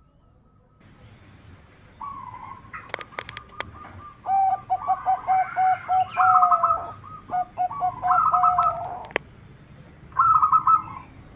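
Zebra dove (perkutut) cooing: phrases of quick, staccato notes, each phrase lasting a second or two, with a few sharp clicks about three seconds in.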